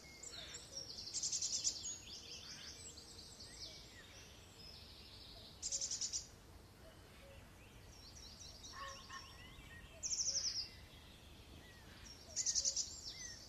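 Songbirds singing: short, rapid high trills and chirps, four louder trills a few seconds apart, over a faint steady background noise.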